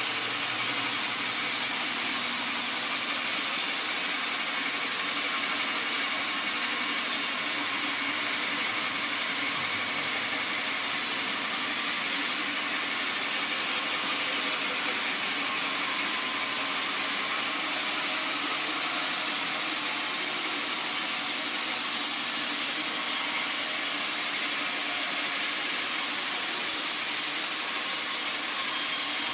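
Sawmill machinery running with a steady, even noise that does not change.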